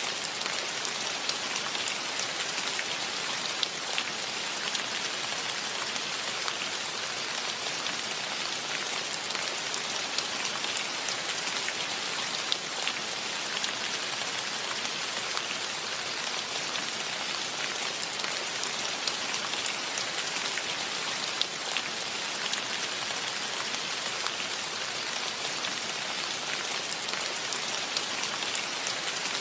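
Steady rain falling, a continuous hiss with many individual drops heard as sharp ticks.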